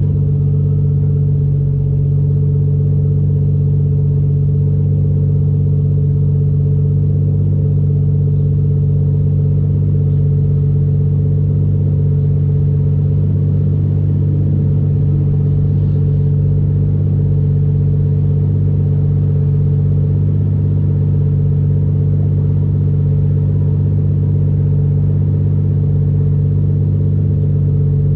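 Toyota 1JZ-GTE VVTi turbocharged inline-six in a Nissan 240SX running at a steady engine speed: an even, constant drone with no rise or fall in revs.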